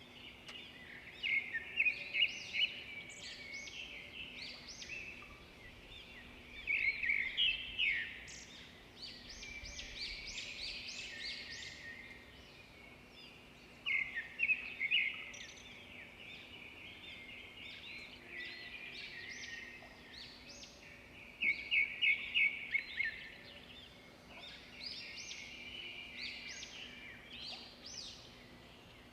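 Birds singing, with bursts of rapid high chirps coming back every few seconds over a faint steady background.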